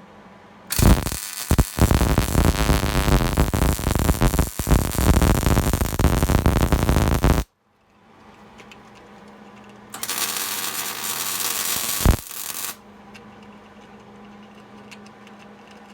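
Welding arc crackling in two runs: a long bead of about seven seconds that starts with a couple of short strikes, then after a pause a shorter run of about three seconds.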